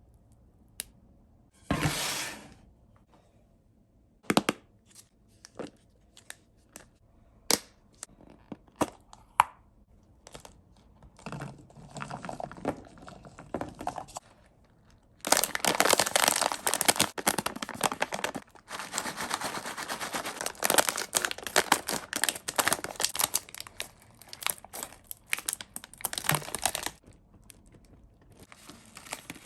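Sweet and chocolate packaging being torn open and crinkled, with scattered sharp clicks and taps as pieces are handled on a platter. A short rip comes about two seconds in, and dense crinkling runs from about the middle until near the end.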